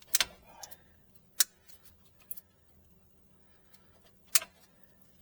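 Pliers clicking and snapping on an electrical wire while pulling a cut piece of insulation off its end: a few sharp clicks, the loudest just after the start, near a second and a half in, and a little past four seconds, with smaller ticks between.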